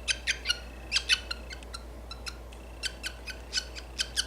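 Budgie chick giving short, harsh squawks in quick bursts throughout: protest calls at being held while its splayed legs are taped.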